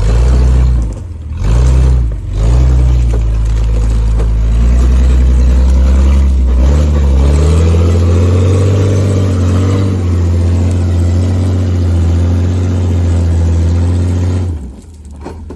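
Off-road rig's engine revving in two short throttle blips, then running steadily with its pitch rising and falling as it is driven over rocks, dropping away near the end.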